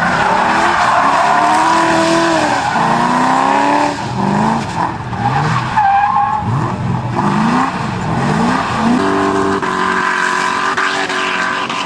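Tuned car engine accelerating hard through a run of gear changes, its pitch climbing and dropping back with each shift, then holding a steady note near the end.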